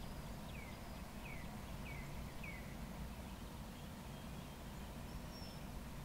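A songbird calling a series of four short chirps, each sliding down in pitch, in the first half, with a faint high whistle near the end, over a steady low rumble.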